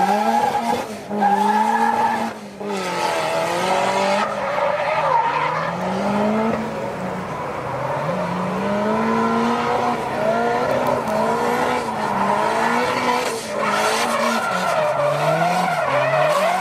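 Drift car's engine revving hard, its pitch rising and falling again and again as the throttle is worked through a drift, with two brief cuts in the first few seconds. Tyres skid and squeal under it.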